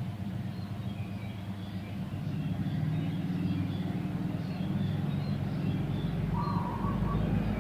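A low rumble that grows louder partway through, under scattered chirps of small birds; near the end a bird gives a short run of repeated notes.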